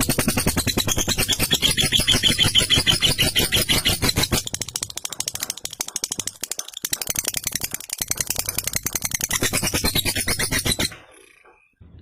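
Lovebird giving its long, rapid chattering trill ('ngekek'): a fast, unbroken stream of rattling notes that is weaker for a few seconds in the middle and stops abruptly about a second before the end.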